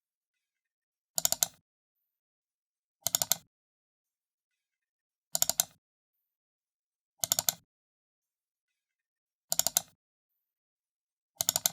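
Computer mouse button being double-clicked, six double-clicks spaced about two seconds apart, each a quick pair of sharp plastic clicks.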